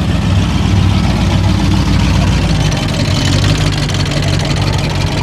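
Demolition derby car engines idling, a loud, steady low rumble with hiss over it.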